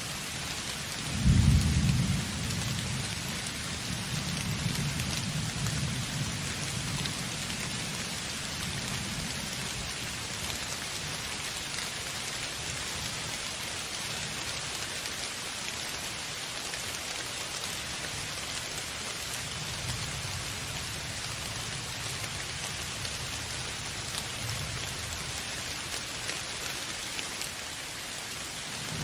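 Steady rain with a thunderclap about a second in, the loudest sound, which rumbles on for several seconds. Fainter thunder rumbles again later.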